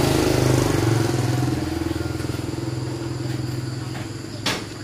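Motorbike engine running steadily, its sound slowly fading, with one sharp click near the end.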